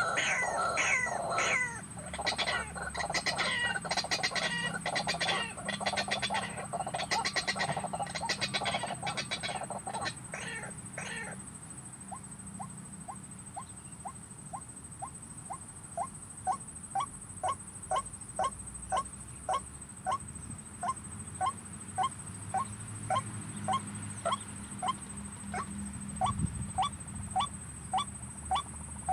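White-breasted waterhens calling: about ten seconds of dense, harsh, rapidly repeated croaking calls, followed by a steady series of short rising notes about twice a second. A steady high whine runs underneath.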